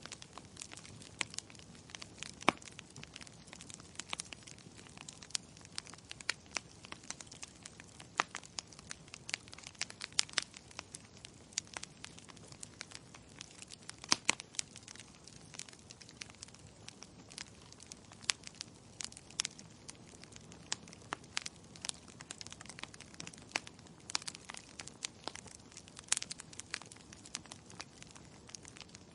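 Wood logs burning in a fireplace, crackling with frequent, irregular sharp pops over a soft steady hiss.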